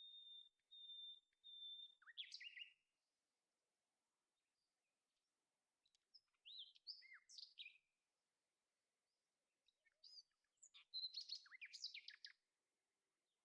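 Faint birdsong: a run of four short, even whistled notes, then bouts of quick chirps, the busiest near the end.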